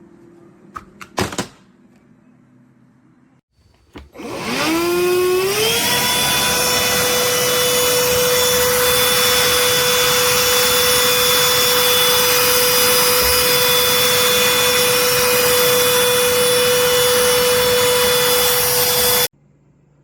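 Cordless handheld vacuum cleaner: a few clicks, then the motor spins up with a quickly rising whine about four seconds in. It runs at a steady high whine over a loud rush of air and cuts off suddenly near the end.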